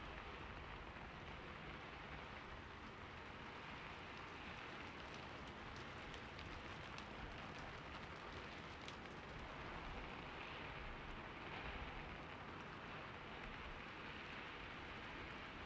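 Steady rain falling on a roof: an even hiss with scattered sharp drop ticks, no thunder.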